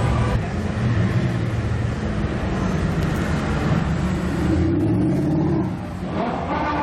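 Supercar engine running loudly in the street, its note holding and shifting, briefly quieter about six seconds in before picking up again.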